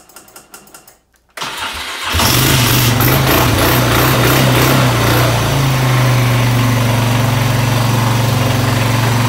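Four-wheeler (ATV) engine cold-started: cranked on its starter for well under a second, catching about two seconds in, then running steadily at idle.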